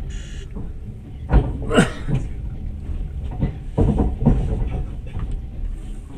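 Passenger train running: a steady low rumble of wheels on the track, with a few sharp knocks and clatters about a second and a half in and again near four seconds.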